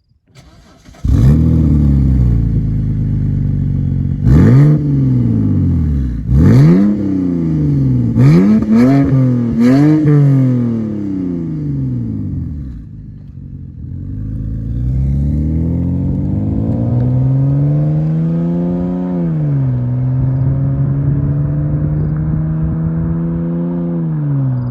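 BMW N52 straight-six engine through a modified exhaust (135i muffler, Vibrant resonator with Y-pipe, secondary catalytic converter removed). It starts about a second in with a flare of revs and settles to idle. It is blipped sharply about five times, then revved slowly up and back down twice, returning to idle.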